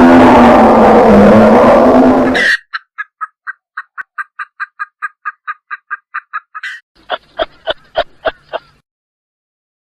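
A large animal's loud roar cuts off abruptly about two and a half seconds in. It is followed by a quick run of short, high bird-like calls, about five a second, and then a handful of louder calls in a slower series.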